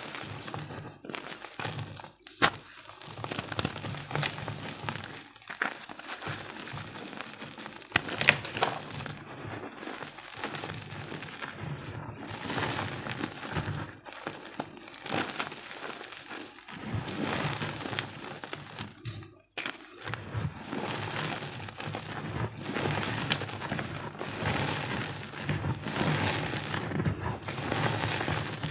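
Blocks of blue and white gym chalk being crushed, crunching and crumbling continuously, with a few sharp cracks where pieces snap, the loudest about two and eight seconds in.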